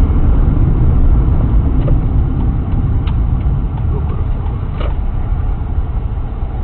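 A car's engine and road noise: a steady low rumble that eases off gradually, with two faint clicks, about three and five seconds in.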